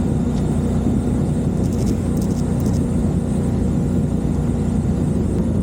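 Motorcycle engine running at a steady pace while riding, heard as a steady low-pitched drone with no revving.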